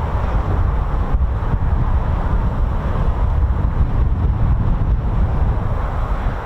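Strong wind buffeting the microphone: a loud, steady rush with a deep low rumble.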